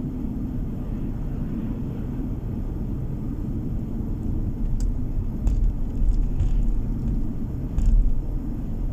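Car driving, its road and engine noise heard as a steady low rumble, with a few short clicks and knocks in the second half and a louder thump about eight seconds in.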